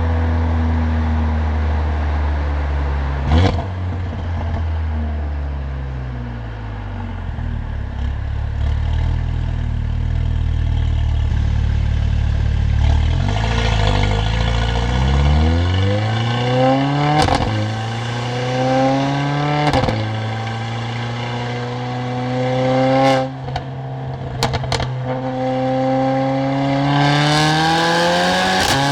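Stage 2 tuned Mercedes-AMG CLA45's turbocharged four-cylinder with a loud exhaust, running low and steady, then accelerating hard from about halfway. Its pitch climbs and steps down through several quick upshifts, each marked by a sharp crack.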